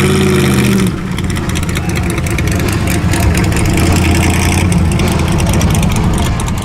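A classic car's engine running close by and loud. A steady engine note in the first second gives way to a rougher, noisier engine sound that carries on.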